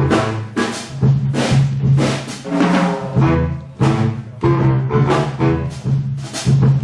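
Big-band jazz orchestra playing, with repeated sharp drum and cymbal hits about twice a second over held bass notes and chords.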